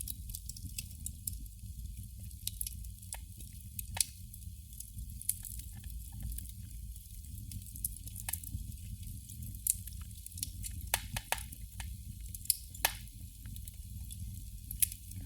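Burning candle crackling: irregular small ticks and pops, with a few louder ones, over a low steady hum.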